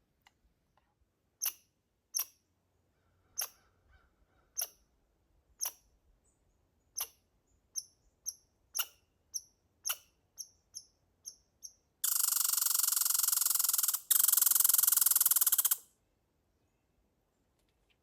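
Red squirrel calling: sharp high chirps, spaced about a second apart at first and then coming faster, then two loud rattling trills of about two seconds each, the squirrel's territorial chatter.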